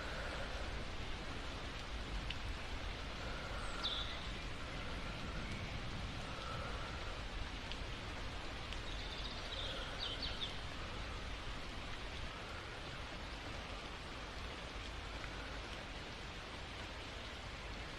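Steady rain, an even hiss throughout, with a few faint short high-pitched chirps about four and ten seconds in.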